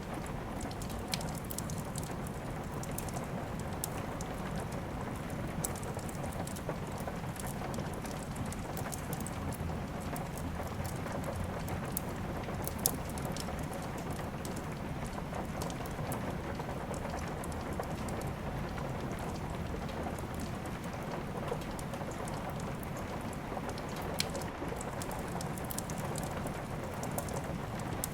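Steady rain mixed with the scattered crackle and pops of a wood fire in a fireplace.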